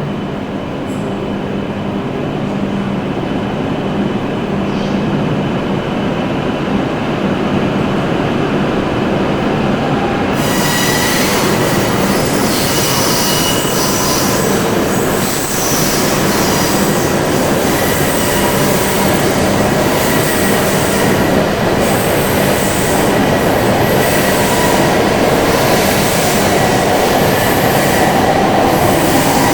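Shinkansen train moving along an underground station platform: a steady loud rumble and rush that builds slowly, with a high hiss and thin whining tones joining about ten seconds in.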